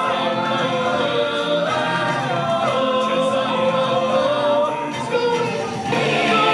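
Musical number: a cast of singers sings as a chorus over a recorded band, holding long notes that slide between pitches.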